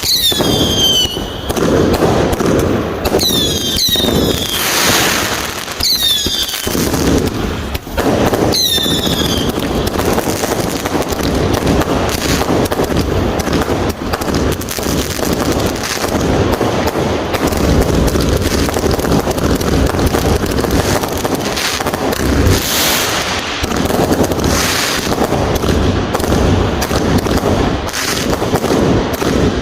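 A dense, continuous barrage of fireworks and firecrackers banging and crackling. In the first nine seconds about four high whistles fall in pitch.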